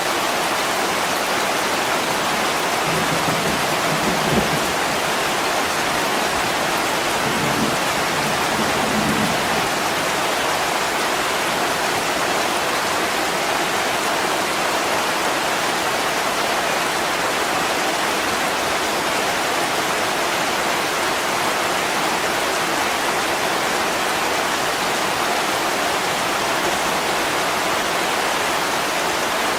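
Heavy rain pouring steadily on a window glass, an even hiss. A brief low rumble comes about three to five seconds in and again around eight seconds.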